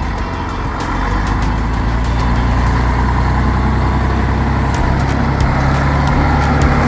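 Freightliner prime mover's diesel engine working hard under load, towing a bogged truck on a chain; it grows louder about a second in and then holds steady.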